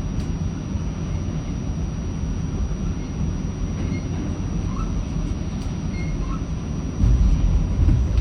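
Passenger train running on the track with a steady low rumble and a few faint, brief wheel squeaks. The rumble grows louder about seven seconds in.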